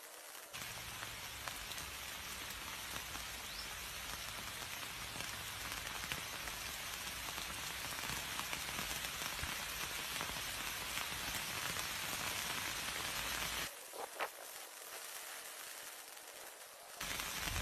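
Steady, even hiss of outdoor noise with no distinct tones. It drops away for about three seconds near the end, then comes back.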